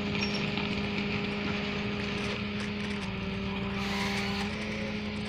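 Tow truck running during the pull, a steady droning whine with a slight dip in pitch for a second or so near the middle, over a rushing noise.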